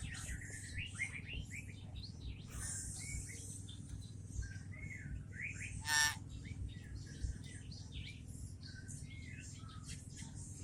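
Nias hill myna calling: a run of short rising and falling whistled chirps, broken about six seconds in by one loud, harsh squawk.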